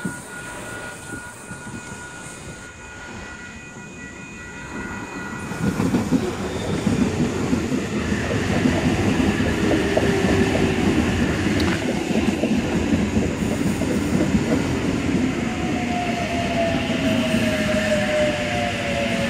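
Double-deck electric passenger train running past the platform: it comes in about five seconds in, building to a steady rumble of wheels on rails with a light clatter. A motor whine falls in pitch near the end.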